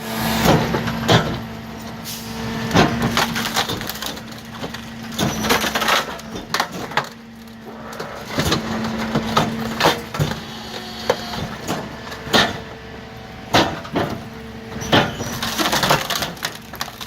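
Wooden picnic table being crushed by a garbage truck: repeated sharp cracks and splintering of wood over the steady hum of the truck's machinery.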